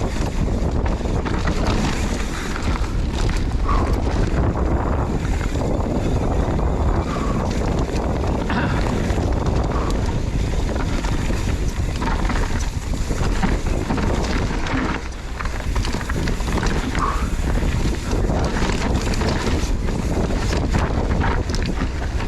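Strong wind buffeting the microphone while riding a mountain bike, a steady loud rumble with scattered short clicks and rattles from the bike on the trail.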